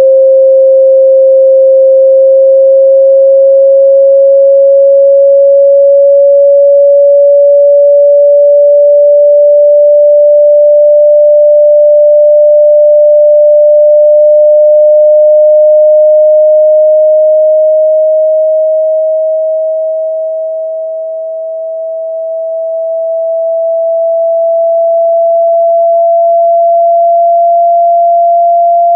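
A loud, pure sine tone played as a phone speaker-cleaning tone meant to shake water out of the speaker. It rises slowly and steadily in pitch, with a brief dip in loudness about two-thirds of the way through.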